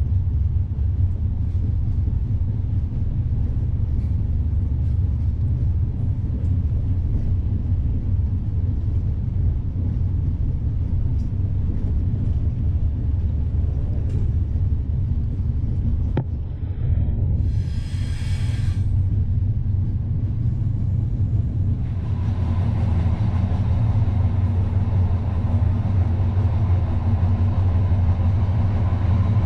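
Steady low rumble of an Intercity Notte passenger coach heard from inside as the train pulls out and gets under way. About two-thirds of the way through there is a brief hiss of about a second and a half, and after that the running noise grows louder and fuller as the train gathers speed.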